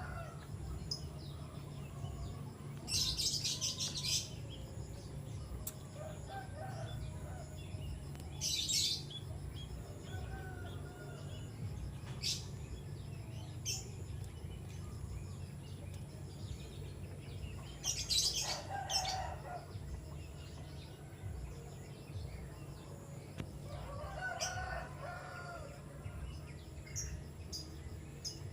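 A small bird chirping in short, high bursts several times, with a rooster crowing now and then in the background over a steady low hum.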